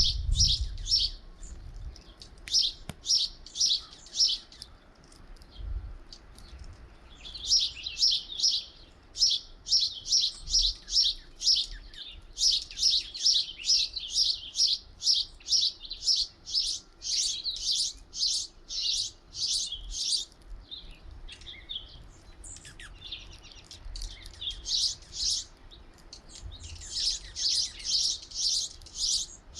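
Small songbirds chirping in quick runs of short, high notes, several a second, with a few brief pauses.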